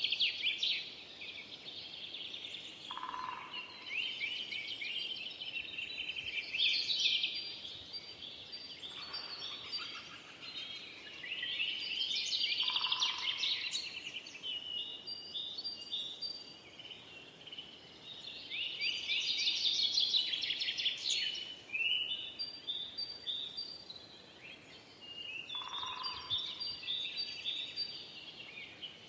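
Forest songbirds singing: bursts of rapid, high trilling phrases every few seconds, overlapping one another, with a lower short call from another bird about four times.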